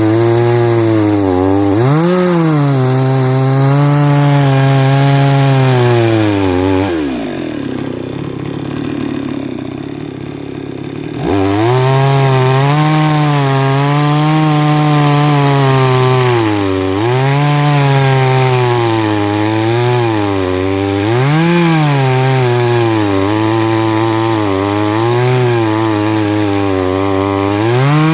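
Chainsaw running and cutting wood, its engine pitch rising and sagging over and over as the chain bites. About seven seconds in the engine drops away to a quieter spell, then revs back up about four seconds later and carries on cutting.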